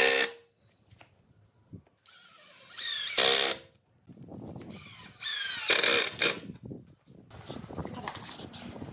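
Power drill running in three short bursts, its whine rising in pitch as it spins up; lighter irregular clatter follows near the end.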